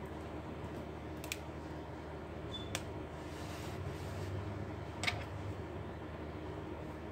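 A few light clicks and taps from small parts being handled during a laptop hinge and case repair, three sharp ones spread through, over a steady low hum.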